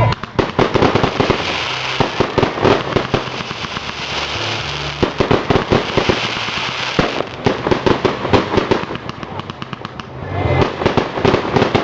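Fireworks going off: a dense run of rapid crackling pops that swells and eases in waves.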